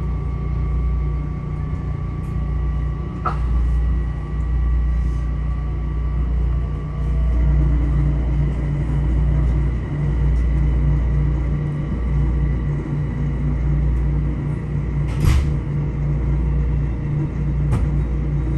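Metro-North M7A electric train under way: a steady heavy rumble of the car on the rails, with faint steady whining tones and a faint rising whine about a third of the way through. Three sharp clicks or knocks cut through it, the loudest about three quarters of the way in.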